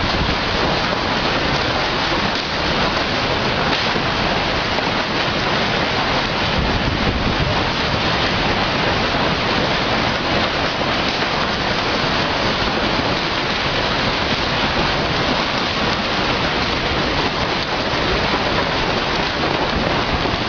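Strong storm wind blowing without a break: a dense, steady noise with no pauses.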